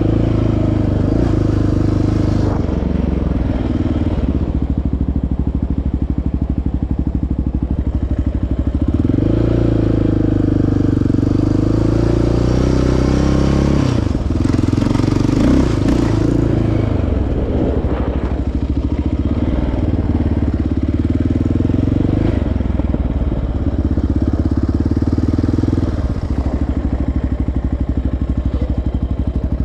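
Single-cylinder four-stroke sport ATV engine running on a trail, its note rising and falling as the throttle is worked.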